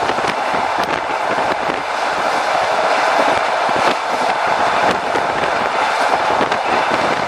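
Passenger train running on the rails across a railway bridge, heard from inside a carriage at the window: a steady loud rumble and rush with frequent sharp clicks and clacks from the wheels and car.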